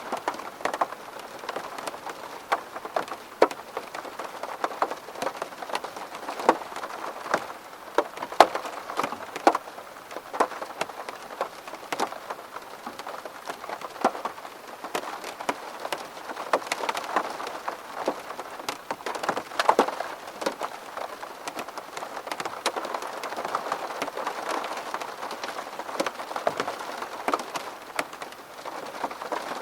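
Rain falling on a window pane: a steady hiss of rain with many sharp, irregular taps of single drops hitting the glass.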